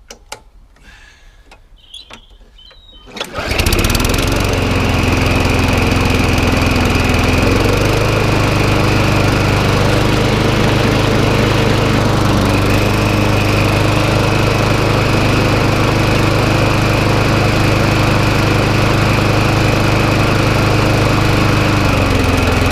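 Faint clicks, then about three seconds in the small petrol engine of a McCall rotary lawnmower catches and runs steadily. Its speed rises slightly about eight seconds in and dips near the end. The engine is running again after being revived from long disuse.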